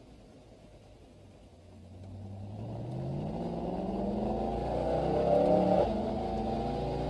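Mercedes-Benz SL63 AMG V8 engine heard from inside the cabin, pulling from low revs as the car accelerates, its pitch rising steadily. About six seconds in the pitch drops suddenly at an upshift, and the engine runs on in the next gear.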